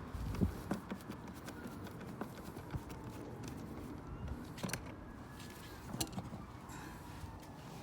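A few scattered light clicks and knocks, roughly one every second or two, over a faint low rumble.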